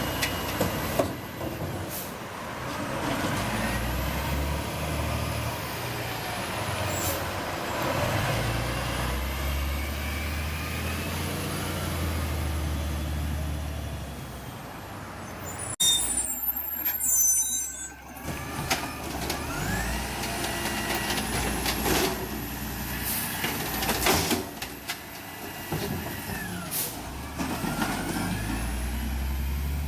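City recycling truck at work: its engine running steadily, with air-brake hiss and rising and falling whines, and a brief high-pitched squeal about halfway through.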